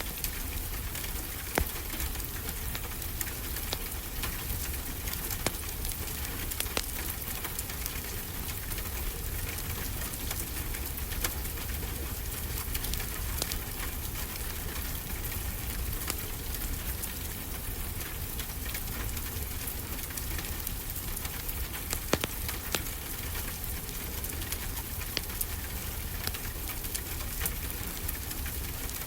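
Wood fire crackling, with scattered sharp pops (the loudest about a second and a half in and again about twenty-two seconds in), over a steady rush of ocean surf.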